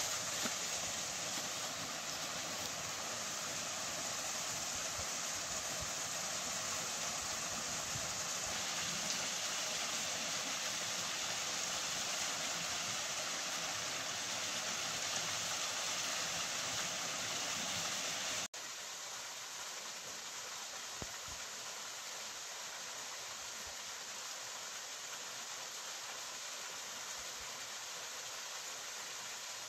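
Steady rush of water from a waterfall pouring over rocks. About eighteen seconds in it drops suddenly to a quieter, thinner rush.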